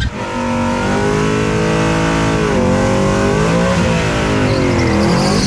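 Drag-racing pickup truck engine at full throttle down the strip. Its pitch climbs, then drops sharply at each gear change, about two and a half seconds in and again near four seconds.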